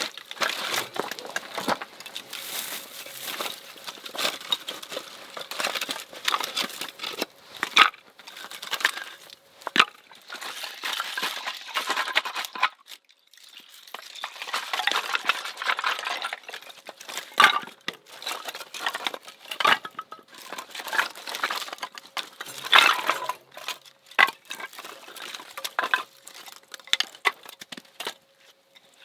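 Close-up rustling with many small clicks, taps and light clinks of objects being handled, with a short pause about 13 seconds in.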